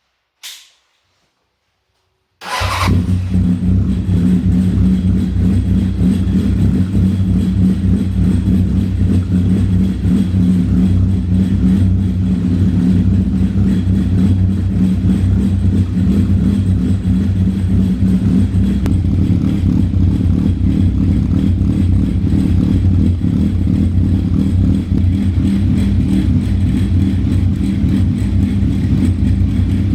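Honda CB1000SF's inline-four engine, breathing through an aftermarket slip-on silencer, catches about two and a half seconds in and then idles steadily.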